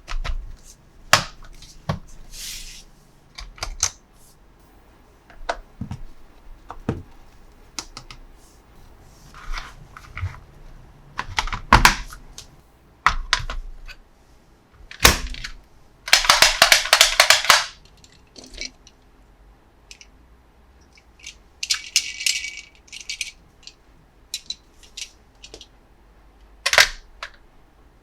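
Hard plastic toy parts and packaging being handled: scattered clicks and knocks, with a dense rattling burst lasting about a second and a half near the middle.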